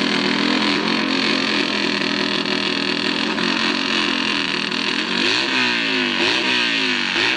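Hillclimb motorcycle engine running at a steady pitch, then revved hard about three times, a second or so apart, the pitch jumping up and sinking back each time.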